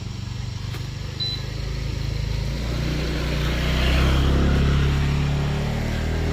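A motor vehicle's engine passing close by, growing louder to its loudest about four seconds in and then fading.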